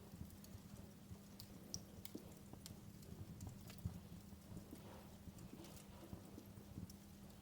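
Wood fire crackling, with irregular small pops and snaps over a low rumble and a faint steady hum.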